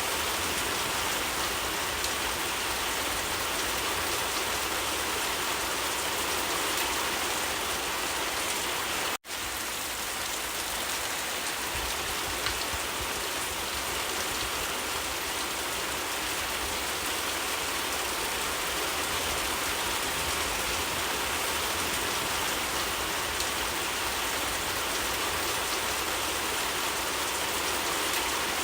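Steady rain falling, an even wash of drops that cuts out for an instant about nine seconds in.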